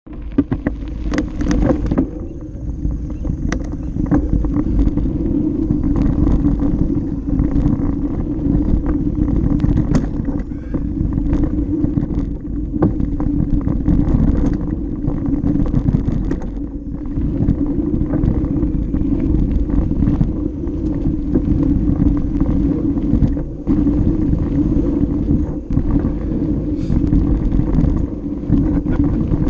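Mountain bike rolling down a dirt flow trail: a steady rumble of tyre noise and wind on the action camera's microphone, with many scattered clicks and rattles from the bike.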